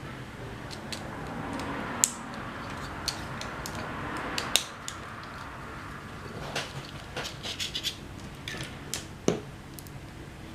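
Irregular clicks, taps and scrapes of small plastic parts and tools being handled while working on an SG900-S drone, with a quick run of clicks about seven to eight seconds in.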